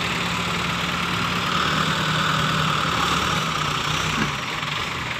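A vehicle engine running steadily at low revs; its hum drops away about four seconds in.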